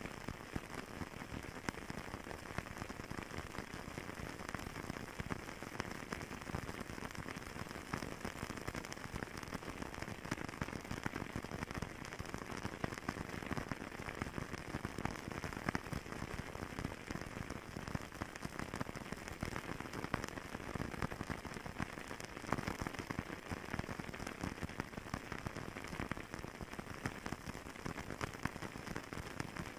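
Fireplace wood fire crackling: a steady dense bed of small pops and snaps.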